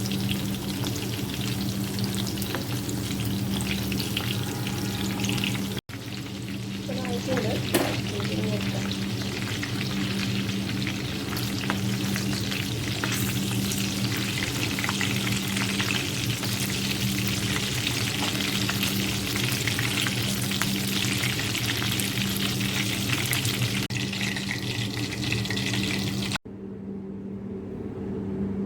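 Batter-coated chicken pakoda pieces frying in oil on medium flame: a dense, steady sizzle and crackle. The sizzle cuts off sharply about two seconds before the end, leaving a quieter low hum.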